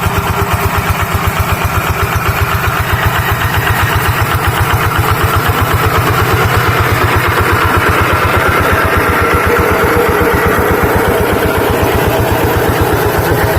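Tractor engine running steadily with an even, rapid chugging beat, working a rice paddy in the plowing.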